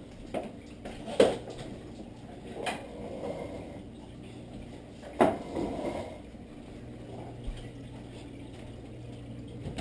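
A few scattered sharp knocks and clicks, about four of them, the loudest about five seconds in, over a faint steady low hum.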